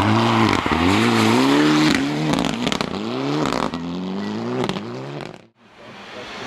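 Rally car engine driven hard on a stage, its revs rising and falling several times over the hiss of tyres on the road, with a few sharp cracks in between. About five and a half seconds in, the sound cuts off abruptly and returns as a quieter engine note.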